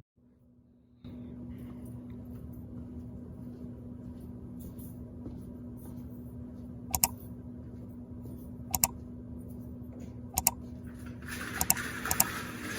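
A steady low machine hum, the kind of running hum a laundromat's machines make. Three sharp clicks come about two seconds apart, then a loud hiss begins near the end.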